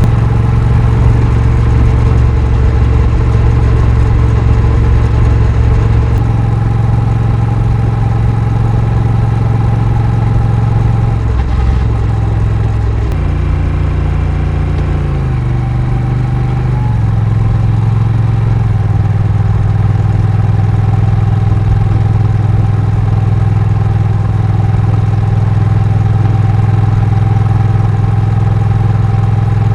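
Honda Rebel 1100's parallel-twin engine running on the move, steady, with the engine note dipping and stepping through several pitches a little before halfway before settling back into a steady cruise.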